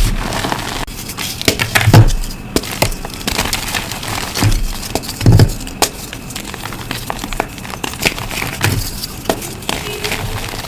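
Reformed blocks of dusty gym chalk being crushed, a dense crunching and crackling with fine grains crumbling, and two heavier crunches about two and five seconds in.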